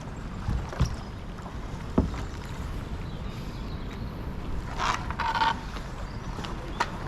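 A racing canoe being handled at a lock portage: a few hollow knocks in the first two seconds and a short scrape about five seconds in, over a steady low rumble.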